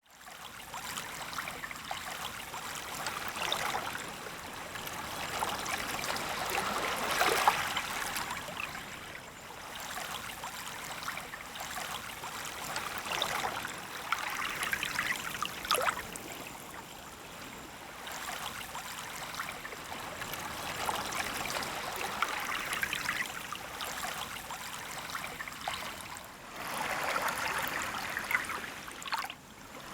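Small, gentle sea waves washing in over a sandy beach. Each wash swells and ebbs over a few seconds with a fizzing, trickling sound.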